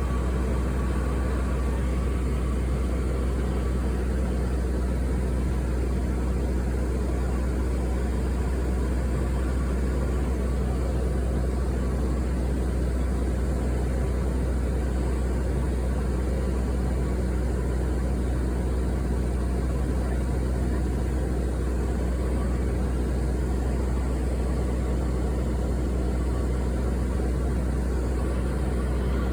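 Steady, unchanging drone of an airliner cabin in flight: low engine and airflow noise with a few faint steady tones above it.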